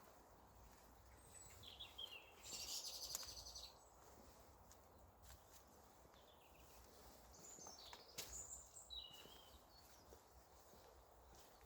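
Birds singing: chirps and a fast high trill in the first few seconds, then another phrase of chirps around eight to nine seconds, over faint outdoor background.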